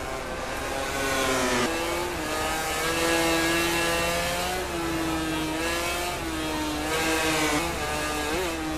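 MotoGP racing motorcycle's 1000 cc four-cylinder engine at high revs: the pitch climbs, drops suddenly about a second and a half in as it shifts or rolls off the throttle, then holds high with further dips and rises and a short blip near the end.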